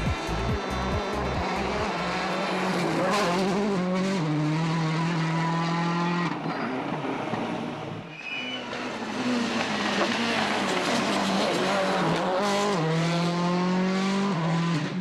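A World Rally Car's turbocharged engine driven hard on a stage, its pitch stepping at each gear change and easing off briefly about eight seconds in before building again.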